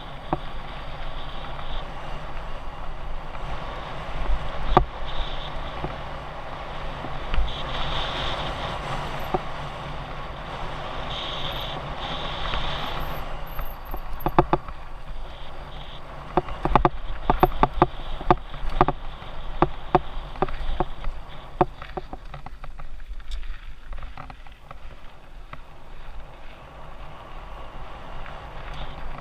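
Mountain bike rolling fast down a dirt trail, heard from a low-mounted action camera: steady tyre and trail noise, with a stretch of sharp rattles and knocks over rough ground about halfway through.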